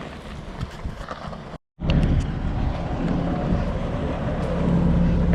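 Outdoor background rumble with a few light clicks. After an abrupt cut, a large diesel engine runs steadily with a constant low hum.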